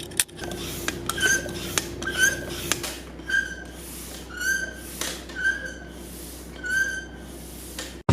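Foot pump squeaking in a steady rhythm, one short high squeak about every second with light clicks, as the quad's tyres are pumped up.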